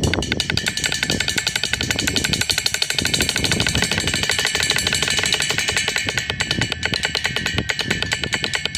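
Drums played in a rapid, even stream of hits, several a second, with a steady high ringing over them.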